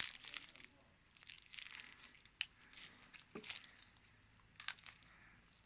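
Plastic wrapper on a stick of seaside rock being crinkled and torn, in several short, irregular bursts.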